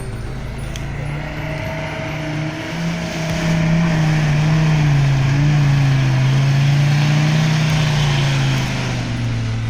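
Diesel vehicle engine working under load, its note climbing over the first few seconds and holding loud, then dropping in pitch and easing off near the end.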